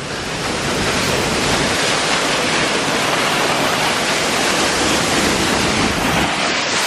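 Waterfall rushing, a loud, steady, unbroken sound of falling water.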